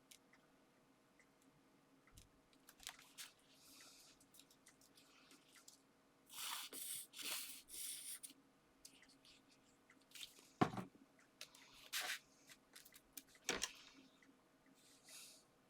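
Paper and card being handled: three short rustles about six to eight seconds in, then a single sharp tap of card against the table, the loudest sound, followed by a couple of lighter clicks.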